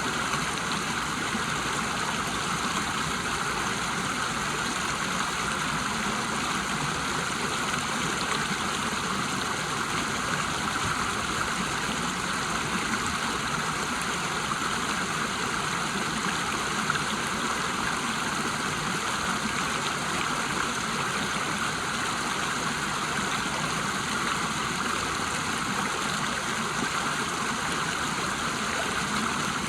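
River water rushing and splashing over a small waterfall, a steady even rush with no breaks.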